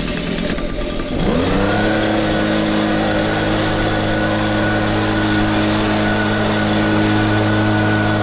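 A motor starting up about a second in: its pitch rises quickly, then it runs at a steady speed, with a faint high whine above it. Before that, an uneven noise.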